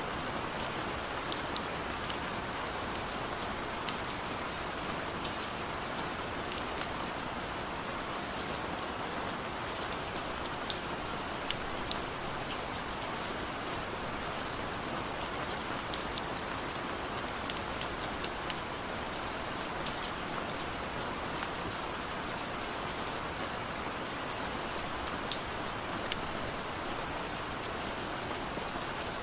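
Steady rain falling, an even hiss with many individual drops ticking sharply on a near surface. No thunder.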